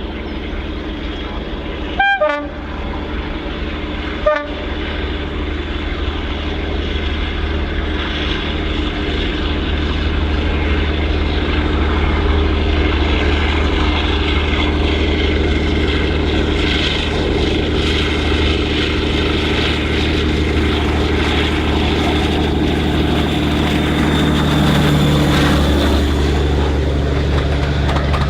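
Diesel locomotive engine running steadily and growing louder, with two short horn blasts about two seconds apart near the start.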